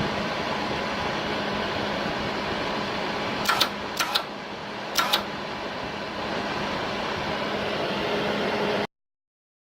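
Hobart Handler 110 V MIG welder running, its wire-feed motor driving steadily with a low hum now that the bad speed potentiometer has been bypassed with a fixed resistor. A few sharp clicks come in the middle, and the sound cuts off suddenly near the end.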